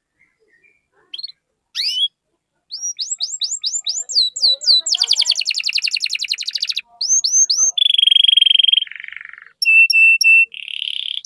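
Domestic canary singing a long, varied song. After about a second of quiet it gives a few rising calls, then runs of quick sweeping notes and a fast trill. It moves on to held buzzy notes and a run of short repeated chirps.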